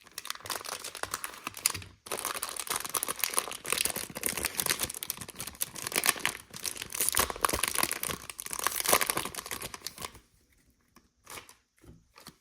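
Plastic wrapper of a Panini Prestige football card pack being torn open and crinkled by hand: a dense crackling rustle with a short break about two seconds in, stopping about ten seconds in, followed by a few faint ticks.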